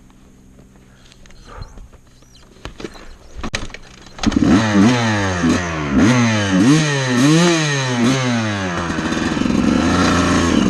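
Honda CR250 two-stroke dirt bike being restarted after a stall: a few knocks as it is kicked over, then it fires about four seconds in, is revved up and down about five times, and settles into steady running.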